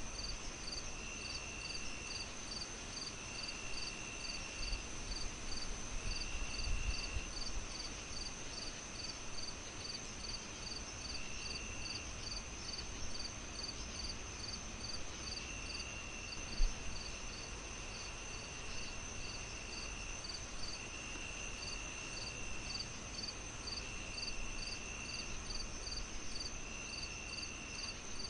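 Crickets chirping steadily over a crackling fire: a continuous high ring, a regular chirp about three times a second, and a lower trill that comes and goes in bursts of a second or so. Underneath, the fire crackles softly, with one louder pop about halfway through.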